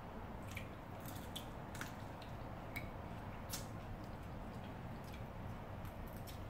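Eating mussels by hand: scattered light clicks and ticks of the shells being handled and picked apart, with soft chewing and mouth sounds, over a faint low steady hum.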